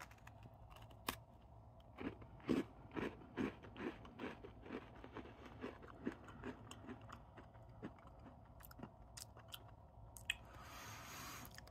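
A person chewing a hard, crisp Tate's Bake Shop pumpkin spice cookie: faint crunches about twice a second, with a soft hiss near the end.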